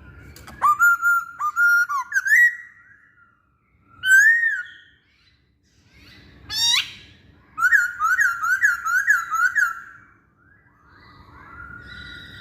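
Poksay Hongkong laughingthrush singing loud, varied whistled phrases separated by short pauses. Near the middle of the song it gives a quick run of about six repeated rising notes.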